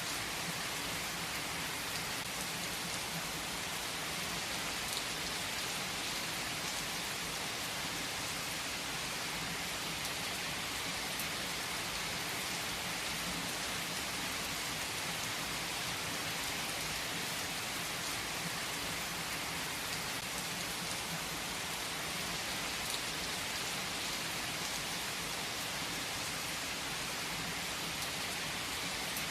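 Steady rain falling: an even hiss with scattered drop ticks and no single loud event.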